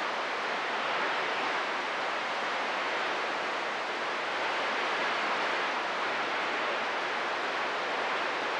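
Steady radio static hiss from a CB radio receiver with its squelch open, with no station transmitting.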